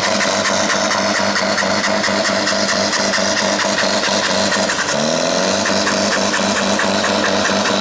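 Farm tractor's diesel engine running hard under load while pulling the weight sled, with a fast regular ticking high over it. About five seconds in, the engine pitch rises.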